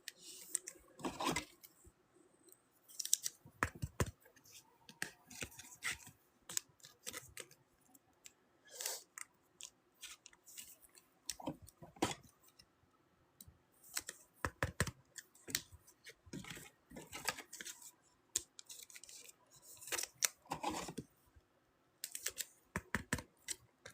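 Football trading cards and their pack wrapper being handled: scattered soft clicks, snips and rustles at irregular intervals as a pack is opened and the cards are sorted.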